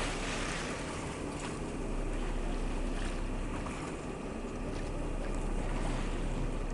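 Boat under way at sea: a steady low engine drone under a continuous rush of wind and water.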